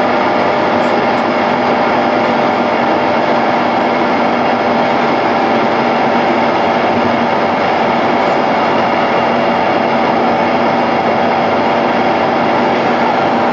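Steady, unbroken drone of a car driving at highway speed, heard from inside the cabin: road and engine noise.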